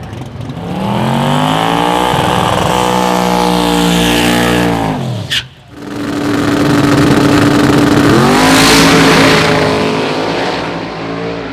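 Drag car engine revving hard: the pitch rises and is held high for several seconds, then drops suddenly about five seconds in with a sharp crack. It then climbs and is held again before fading near the end.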